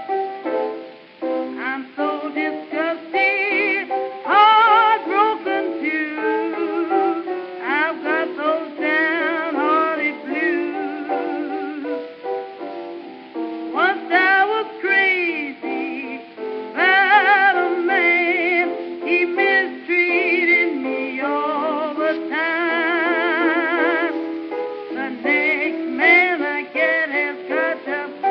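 A 1923 acoustic-era blues record: a woman sings with wide vibrato over instrumental accompaniment. The sound is thin and narrow, with no bass and no highs.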